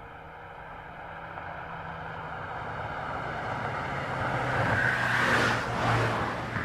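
A car approaching and driving past, its engine and tyre noise growing steadily louder and peaking about five to six seconds in before easing off.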